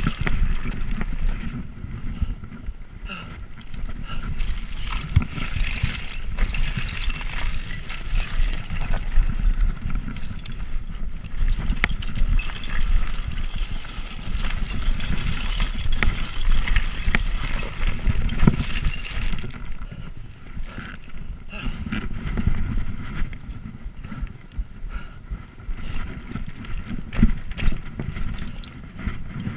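Wind buffeting the microphone, with rolling tyre and road noise from a moving bicycle: a steady, uneven rumble without clear tones.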